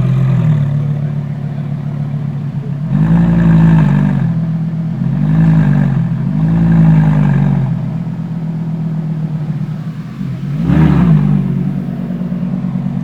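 Straight-piped Lamborghini Gallardo LP570-4 Superleggera 5.2-litre V10 idling loudly, blipped four times with short revs that rise and fall back to idle: two near the start of the second third, one just after, and one near the end.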